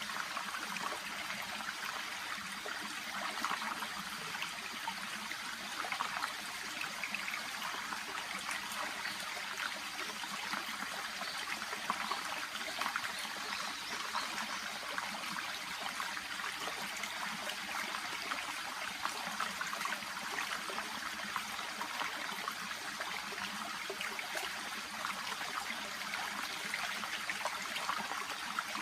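Small brook babbling and trickling steadily, an even rush of water with fine flickering splashes and no break.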